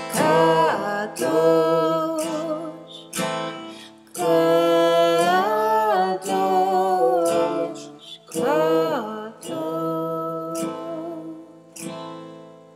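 Song with a strummed acoustic guitar and a singing voice, ending with a last strum that rings away near the end.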